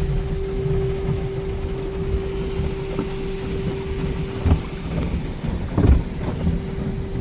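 Automatic in-bay car wash running over the car, heard from inside the cabin: a steady pump whine over a low rumble of spray on the bodywork. A few dull thumps come near the middle and later on.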